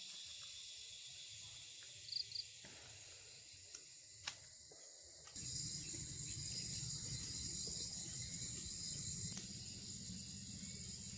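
Insects chirring steadily, a high-pitched drone, with two short high chirps about two seconds in and a sharp click near four seconds. About five seconds in the background shifts abruptly, the insect drone louder and a low rumble added.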